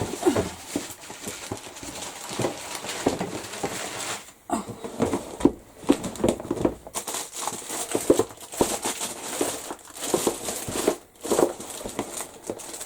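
Rustling and small irregular knocks of craft supplies and packaging being rummaged through by hand.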